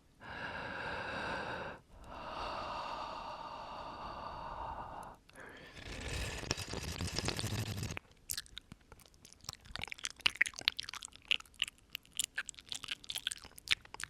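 Close-miked human breathing: two long breaths, then a heavier breath blown onto the microphone. From about eight seconds in comes a quick run of wet mouth clicks and smacks.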